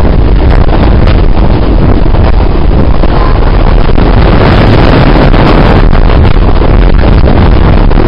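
Loud, steady rushing and rumbling of a moving passenger train heard from a seat at the window, with wind buffeting the microphone.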